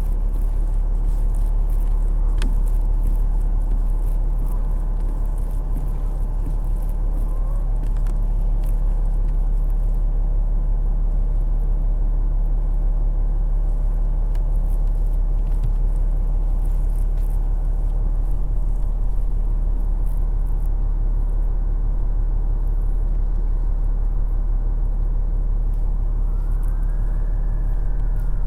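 Steady low rumble of city traffic, with scattered light ticks in the first few seconds and a passing tone that rises and then falls near the end.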